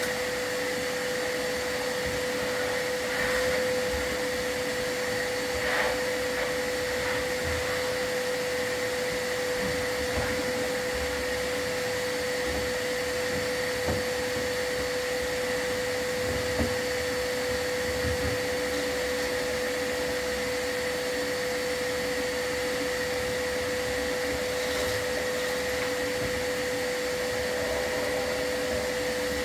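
Chimney sweep's dust-collection vacuum running steadily with a constant whine, and a few light knocks over it.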